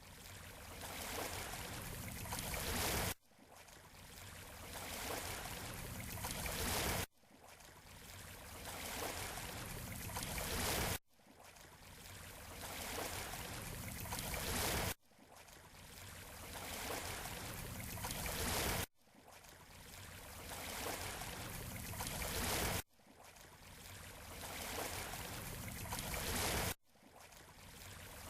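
Shoreline surf: a short water-noise recording played on a loop. Each pass swells steadily for about four seconds, then cuts off abruptly and starts again, so the repeats come at an even, unnatural rhythm.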